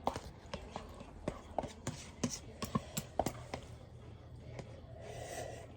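Close-up eating sounds: a run of sharp, irregular crunches and clicks, with a brief hiss a little after five seconds.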